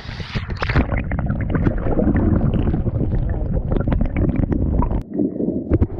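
Muffled sloshing and rumbling with a rapid run of knocks and scrapes as a dual-sport motorcycle goes down in a mud hole; the noise drops sharply about five seconds in.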